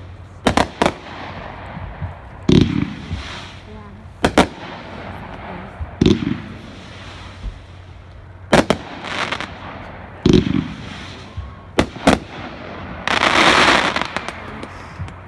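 Dominator 'American Steel' 500-gram consumer fireworks cake firing its shots. A shot goes off about every two seconds, several starting with a low launch thump followed by sharp bangs. Near the end comes a longer rushing, crackling burst.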